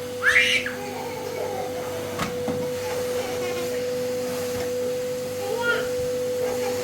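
A steady mechanical hum, with a short high cry just after the start and a fainter one near the end.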